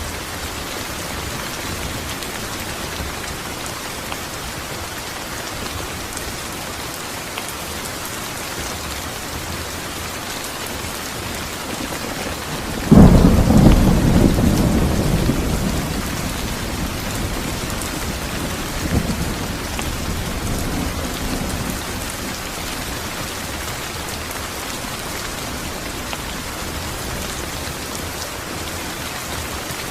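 Steady heavy rain falling. About halfway through, a sudden loud thunderclap breaks in and rumbles away over several seconds, with a weaker rumble a few seconds later.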